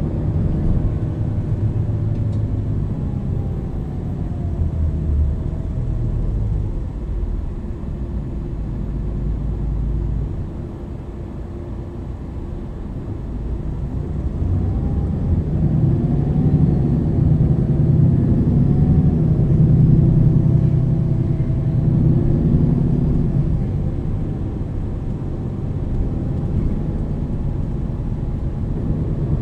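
MAN NL 323 city bus's diesel engine and ZF EcoLife automatic gearbox, heard from inside the bus, with whining tones that slide up and down in pitch. The engine eases off about ten seconds in, then pulls harder and louder from about fifteen to twenty-three seconds in.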